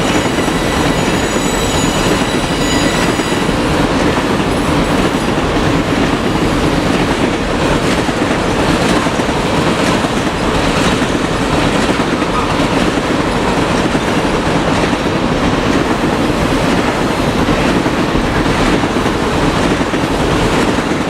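Freight train cars rolling past at speed: steady wheel-on-rail rumble with a regular clickety-clack over the rail joints, and a faint high wheel squeal that fades within the first few seconds.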